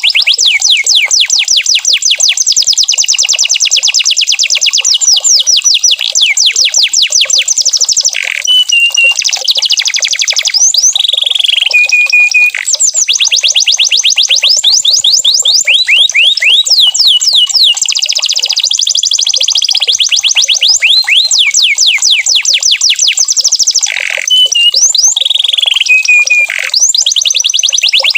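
Domestic canary singing a continuous song of fast rolling trills, each made of many quick repeated sweeps, broken now and then by short held whistled notes.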